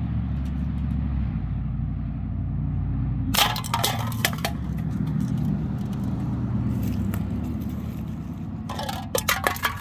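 Empty aluminium cans clattering and clinking as they are hit and knocked over, in two short bursts, one about three and a half seconds in and one near the end, over a steady low hum.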